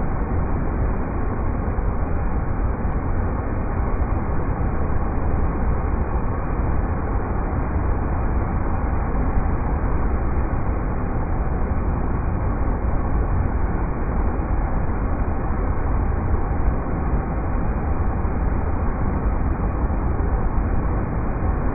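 River rapids: water rushing in a deep, steady roar that does not change.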